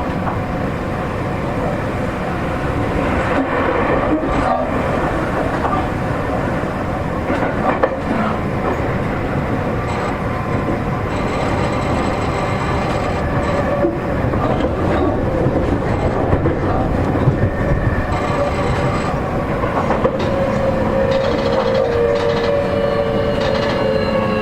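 Seibu 40000 series electric train running, heard from inside the car: wheel and rail noise with a few sharp clicks over rail joints, under the steady whine of its Toshiba permanent-magnet traction motors and VVVF inverter. Near the end the motor whine falls steadily in pitch as the train slows.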